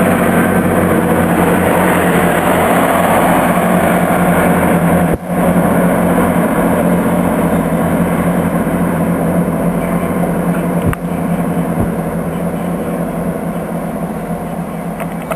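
Chiltern diesel multiple unit trains running at a station, a steady low engine drone with rail noise. The sound breaks off sharply twice, about five and eleven seconds in, and eases a little near the end.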